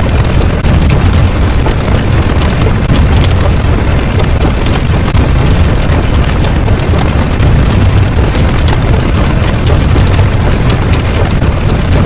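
A loud, steady low rumbling roar with a fine crackle over it, continuous and without a break: a sound effect of the explosion or eruption kind.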